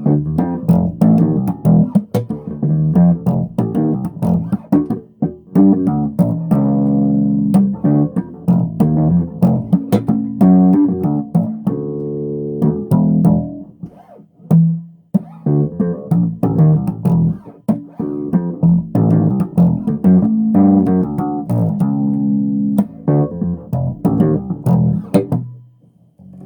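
Solo electric bass guitar played in a funky groove of plucked notes with sharp percussive attacks, with a short break about halfway through.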